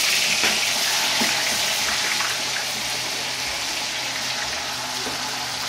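Cubed tofu deep-frying in hot oil in a wok: a loud, steady sizzle that eases slightly over the seconds.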